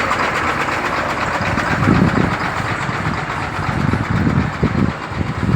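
Diesel truck engine running, a steady mechanical noise with low rumbles that swell a few times.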